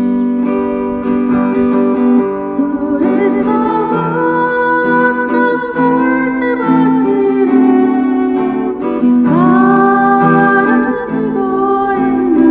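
Acoustic guitar playing a slow ballad, with a melody of long held notes with vibrato over the chords twice.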